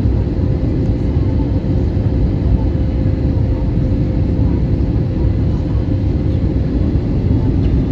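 Cabin noise inside an Airbus A320neo airliner in flight: a steady low rumble of engines and airflow with a faint constant hum.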